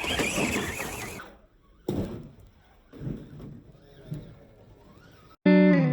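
A noisy rush that fades out in the first second, a sudden knock about two seconds in and a few faint wavering sounds, then a loud strummed guitar chord starts sharply near the end and rings on.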